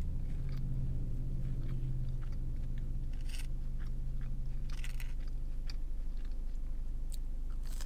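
Close-up chewing of French toast sticks, with scattered small crunches and wet mouth clicks. A low steady hum sits under it and fades out after about six seconds.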